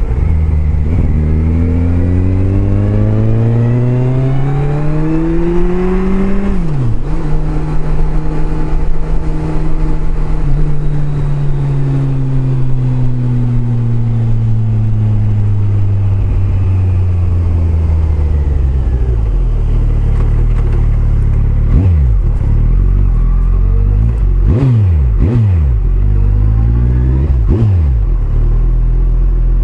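Kawasaki Concours 14's inline-four engine accelerating with a rising note, a sharp drop in pitch about six seconds in as it shifts up, then a long falling note as the bike slows. It settles to a low idle, with a few brief throttle blips near the end.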